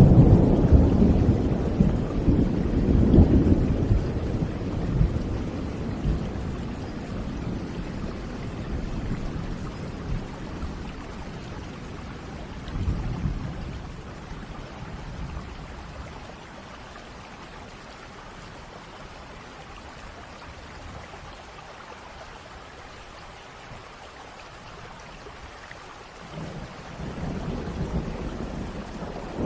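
Thunderstorm: a low thunder rumble fading away over the first few seconds, a shorter rumble about halfway through, and steady rain between them, with a new rumble of thunder building near the end.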